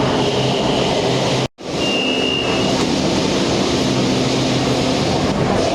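Bangkok BTS SkyTrain running: a steady rumble with a few steady hum tones. The sound drops out for a moment about a second and a half in, and a short high beep follows.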